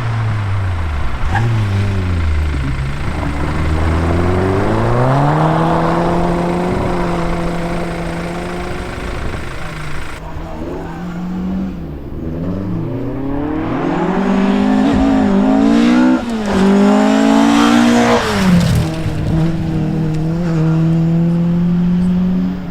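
Rally car engine under load, its pitch falling, climbing back and holding steady, then rising steeply through the revs before dropping sharply about eighteen seconds in and settling at a steady note.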